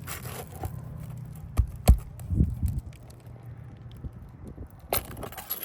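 Handling of asphalt roof shingles while feeling for a nail to pull: two dull knocks about two seconds in, a short scrape, and a sharp click near the end, over a low steady rumble.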